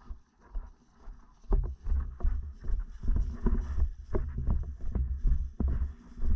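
Irregular thumps and rustling, with a low rumble, from movement and handling noise on a camera carried by a moving player.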